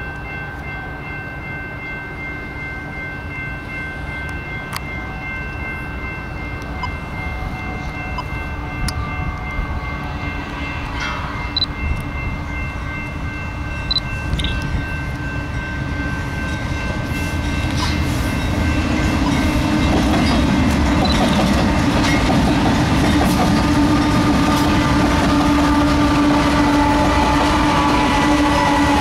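BNSF diesel locomotives leading a double-stack container train approach with the horn sounding a steady chord for about the first ten seconds. The engines' rumble then grows louder until the lead locomotive passes close by near the end.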